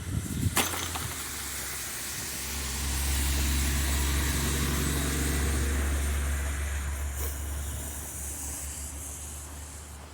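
A motor vehicle passing on a snowy street: a low engine rumble with a hiss swells, holds for a few seconds, then fades away. There is a sharp click about half a second in.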